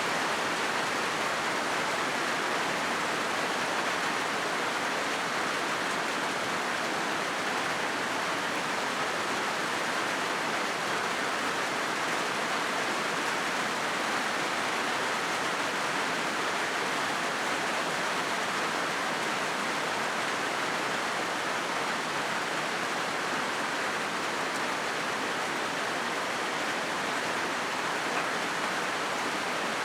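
Steady rain falling on a corrugated zinc roof: a dense, even hiss of drops on the metal sheets, with no let-up.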